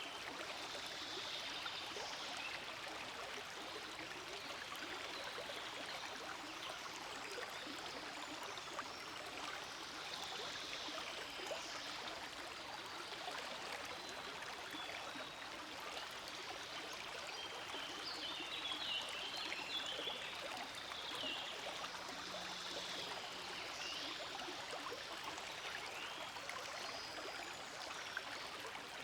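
Forest stream flowing steadily: a continuous rush of running water, with brighter flickering splashes coming and going on top.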